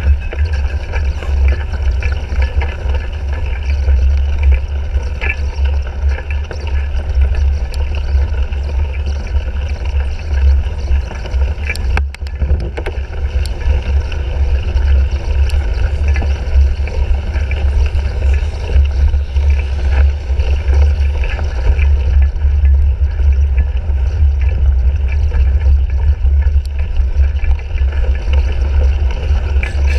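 Wind buffeting the microphone of a handlebar-mounted GoPro Hero 3 on a cyclocross bike being raced over rough ground. It makes a loud, steady, heavy low rumble with scattered small clicks and rattles from the bike.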